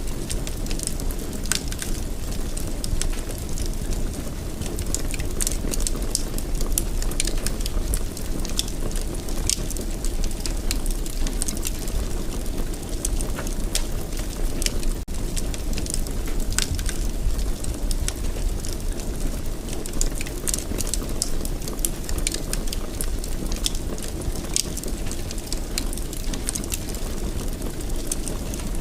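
Wood fire burning in a fireplace: a steady low rush of flames with frequent irregular crackles and sharp pops of the burning wood.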